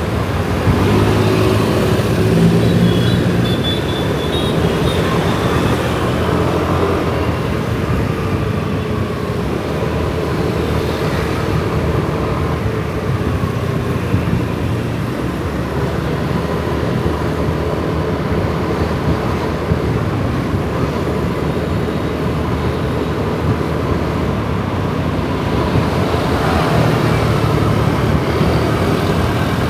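Kawasaki ZX-4RR's inline-four engine running as the motorcycle rides through city traffic, over steady wind and road noise. The engine note comes up strongest about a second in and again near the end.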